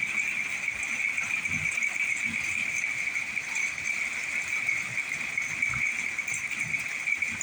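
Steady chorus of night insects, an even high-pitched buzz, with faint low rumbles now and then during a mild thunderstorm.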